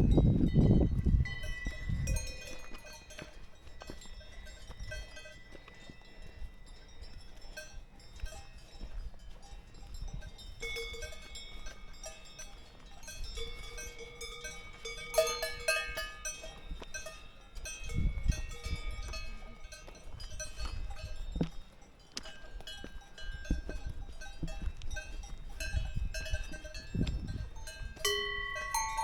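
Several cowbells on grazing cows ringing irregularly at different pitches, with low wind rumble on the microphone now and then.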